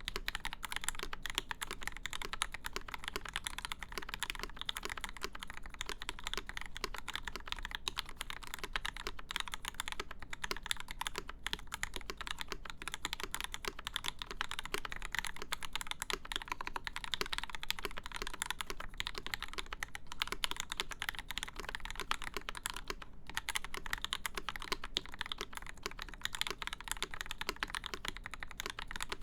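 Continuous fast typing on a mechanical keyboard with lubed Gateron Ink switches, GMK keycaps and a full aluminium plate in an acrylic case: a dense, even stream of key clacks with no pauses.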